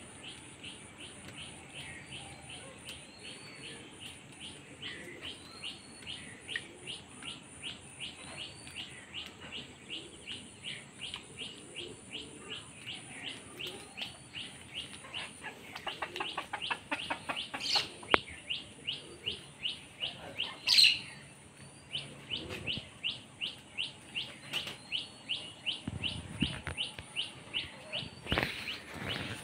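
A small bird chirping over and over, about three short chirps a second, with other birds calling now and then. A short, sudden louder noise comes about two-thirds of the way in.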